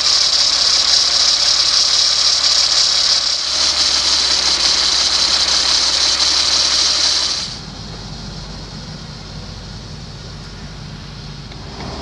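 Freightliner FL80 bucket truck's diesel engine idling steadily. At first a loud high hiss sits over it; this drops away about seven and a half seconds in, leaving a quieter, lower rumble.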